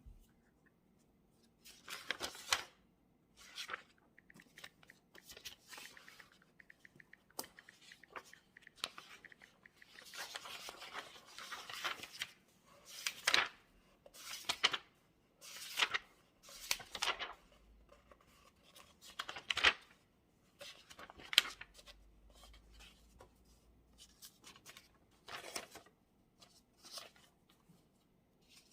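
Paper rustling at a desk in a dozen or so short bursts, with small clicks and taps between them.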